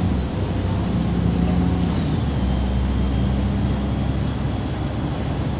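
MAZ 203.065 city bus heard from inside the passenger cabin while under way: a steady low engine and drivetrain drone, with a faint high whine that slowly rises and then falls.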